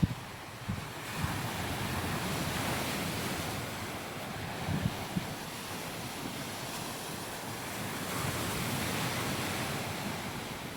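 Gentle surf washing onto a sandy beach, the rush of the waves swelling twice, with wind on the microphone and a few short low thumps.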